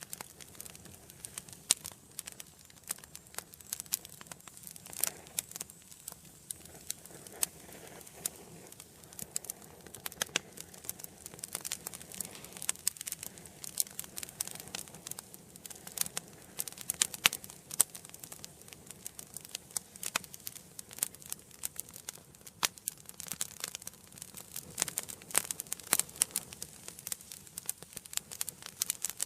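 Wood fire burning in an indoor fireplace: a steady run of sharp, irregular crackles and pops over a soft hiss.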